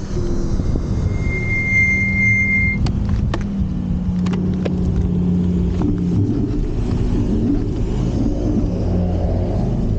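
Wolf Warrior 11+ electric scooter riding over a dirt BMX track: a steady low rumble of wind and tyres on rough ground, with scattered knocks from the bumps. A brief high-pitched squeal comes about a second in.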